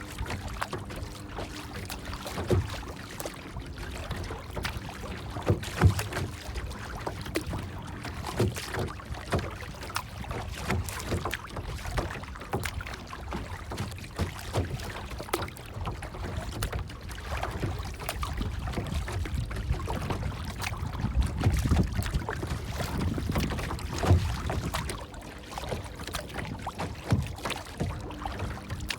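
Water lapping and splashing irregularly, with a steady low rumble underneath and a few louder slaps.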